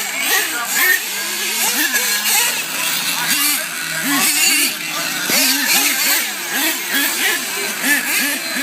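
Monster truck engines revving over and over in quick rises and falls of pitch during a race, over a steady engine drone.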